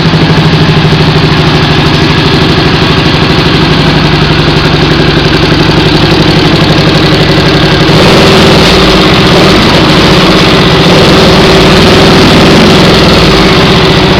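Honda CX500 V-twin motorcycle engine idling through its wrapped exhaust and modified mufflers, with a misfire that the owner puts down to air leaks in cracked carburettor insulator rubbers. It gets a little louder about eight seconds in.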